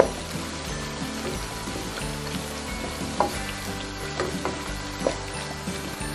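Onions, ginger, garlic, green chillies and coconut sizzling in hot oil in a non-stick wok, stirred with a wooden spatula that scrapes the pan a few times.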